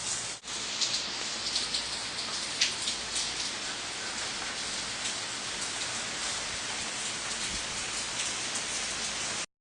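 Steady patter of water dripping and splashing after a downpour, with separate drops striking now and then; the owner takes it for runoff from the roof rather than drizzle. It cuts off suddenly near the end.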